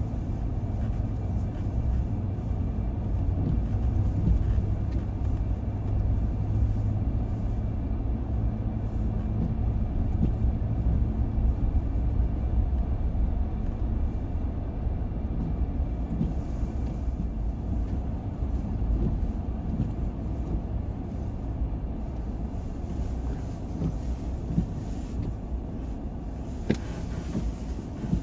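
A car driving, giving a steady low rumble of engine and tyre noise, with one sharp click near the end.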